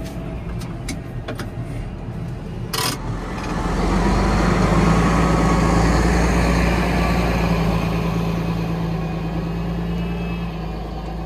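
Tractor engine running, with a few clicks and one sharp knock in the first few seconds; about four seconds in it grows louder and settles into a steady hum.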